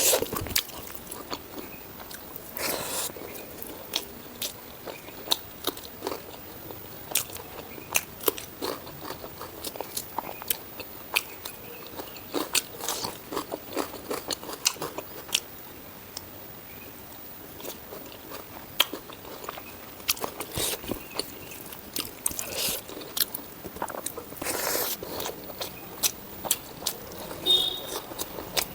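Close-miked eating of spicy pork ribs with rice: steady biting and chewing, with crunchy bites and many sharp wet mouth clicks throughout, and a few longer, louder chomps.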